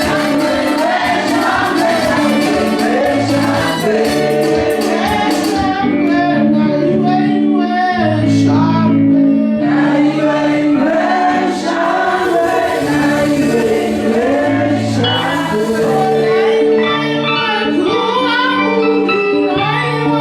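Gospel music: a choir singing over instrumental backing with a moving bass line.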